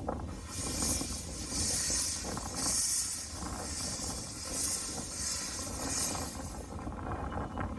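Czech steam locomotive 213 901 working, a low rumble under loud steam hissing that swells and fades roughly once a second.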